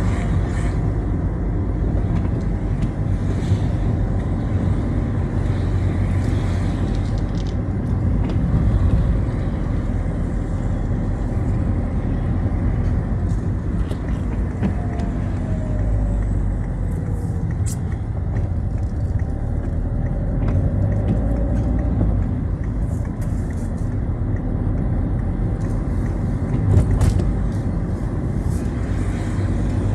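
Citroën Xsara being driven along, a steady low engine and road rumble with scattered faint ticks and clicks.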